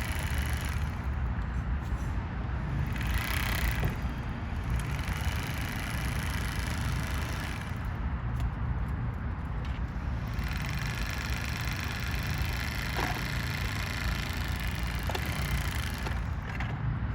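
Steady rumble of road traffic, strongest in the low end. A couple of faint, brief ticks come in the second half.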